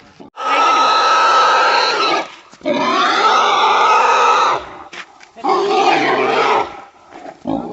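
Pig squealing loudly: three long, shrill squeals of about two seconds each, with short breaks between them, like a pig being held or handled.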